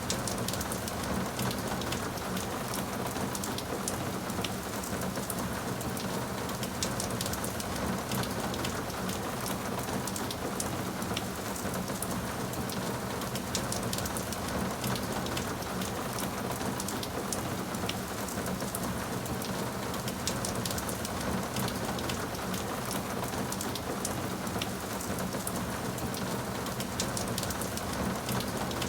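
Steady rainfall on a surface, an even hiss dotted with many small drop ticks.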